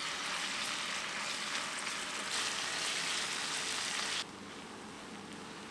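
Ground spice paste (shallot, garlic, chili) sizzling as it fries in oil in a pan, stirred with a silicone spatula on low heat until it turns blackish. The sizzle steps down suddenly about four seconds in to a quieter hiss.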